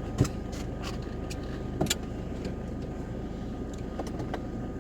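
Van engine idling steadily, with a few sharp clicks and knocks inside the van.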